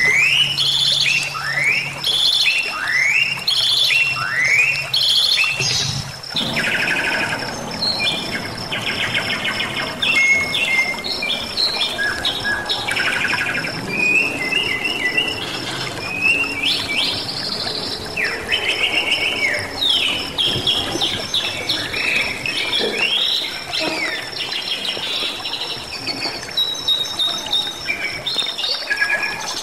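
Bali myna (Bali starling) singing in full voice: a quick run of rising whistled notes, then varied chattering phrases and trills, with rushing water behind from about six seconds in. A steady high pulsing tone sounds underneath.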